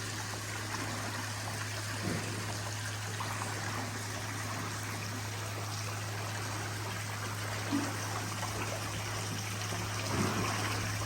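Glacier meltwater running and trickling steadily, an even rush of water with a low steady hum underneath.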